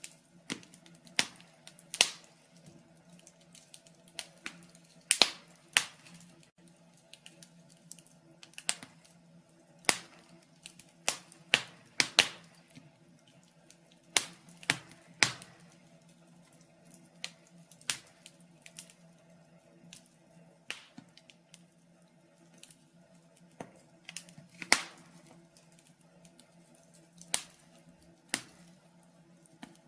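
Wood fire in a fireplace crackling, with irregular sharp pops about once or twice a second over a faint steady hum.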